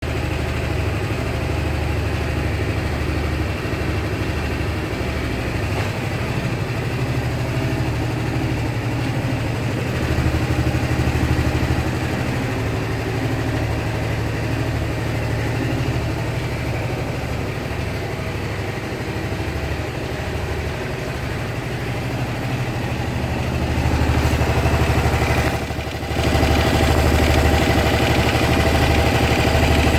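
Honda SH300i scooter's single-cylinder engine running at idle with a ticking noise, which the owner is sure means something is going wrong, although mechanics have told him it is nothing. Near the end it grows louder, dips for a moment and then holds steady at the higher level.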